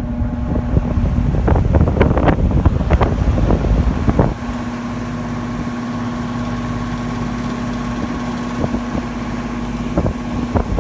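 Vintage Kisco box fan with an aluminum Torrington blade running on high speed: a steady electric motor hum with the rush of moving air. For the first four seconds or so the airflow buffets the microphone with gusty thumps, then it settles into an even hum.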